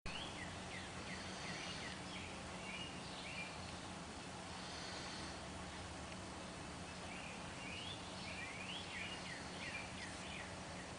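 Small birds chirping in short quick calls that sweep up and down, in two spells, over steady background noise with a faint low hum.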